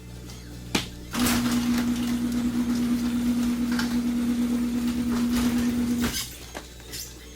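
Komatsu PC27 mini excavator's hydraulics working under load: a loud steady whine over the running engine for about five seconds, stopping suddenly, with a knock just before it starts.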